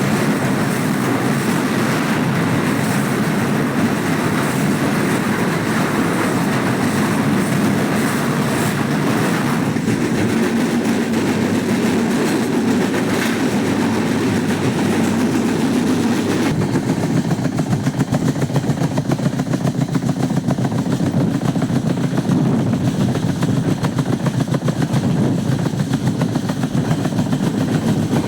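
Passenger train running along the track: a steady, continuous low rumble. A little over halfway through, the higher hiss drops away and a more pulsing low rumble remains.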